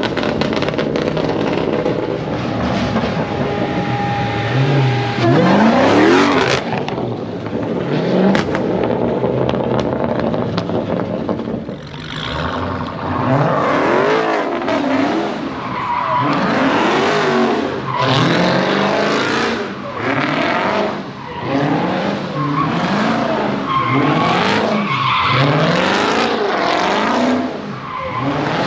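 A performance car doing a burnout or donuts: the engine revs up and down repeatedly, about once a second in the second half, over tires squealing and skidding on pavement.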